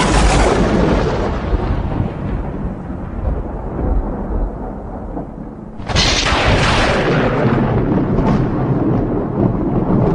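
Thunder: a sharp crack at the start that rolls off into low rumbling over several seconds, then a second sudden crack about six seconds in, followed by more rolling rumble.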